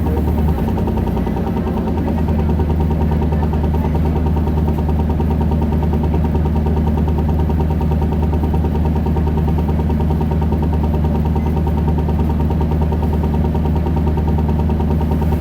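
Isuzu Erga 2KG-LV290N2 city bus's four-cylinder diesel engine running at a steady, even pitch, heard from inside the passenger cabin, with a slight change in the hum about two seconds in.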